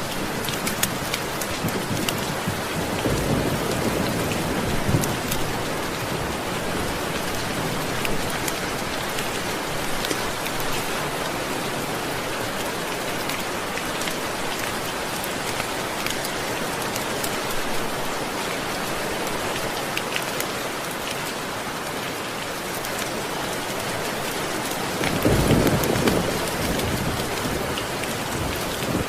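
Steady rain, with a low rumble of thunder swelling about three seconds in and again near the end.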